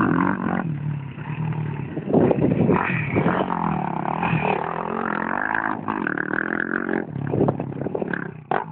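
Motocross motorcycle engines revving, their pitch rising and falling again and again as the throttle opens and closes.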